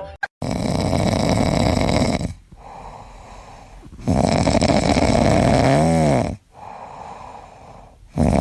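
Loud snoring in a slow rhythm: two long noisy breaths of about two seconds each, with quieter breaths between them and a third loud breath starting at the very end.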